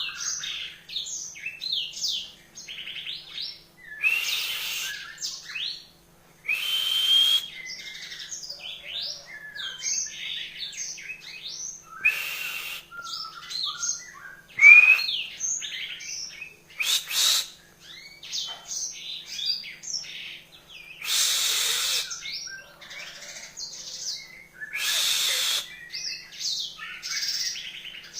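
Mozambique canary (yellow-fronted canary) singing: a long run of quick, varied twittering phrases broken by short pauses, with a few louder rising notes.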